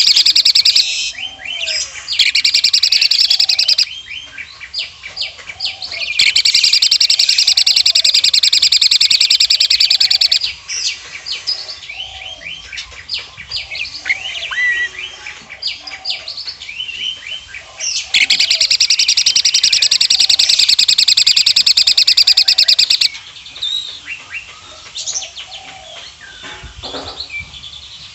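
Asian pied starling singing. Its song is four long runs of very fast rattling notes in imitation of a woodpecker, each lasting a few seconds, with scattered chirps and whistles in between.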